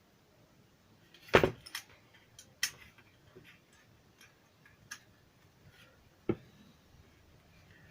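Scattered sharp clicks and light knocks from tools and small plastic parts being handled while a portable Bluetooth speaker is taken apart, the loudest about a second and a half in.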